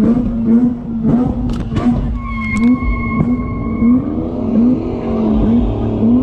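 A car engine held at high revs, its pitch surging up and down over and over at about two surges a second. A steady high tone sounds for about two seconds near the middle. A hiss builds in the second half.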